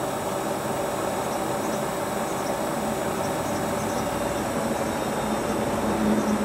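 Hotpoint Ultima WT960 washing machine running on its new replacement drive belt: a steady mechanical hum with a constant whirr.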